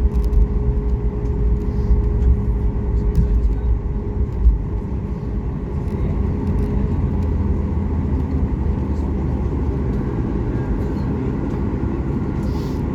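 Steady low rumble of a moving vehicle heard from inside, with a steady hum that fades out about halfway through.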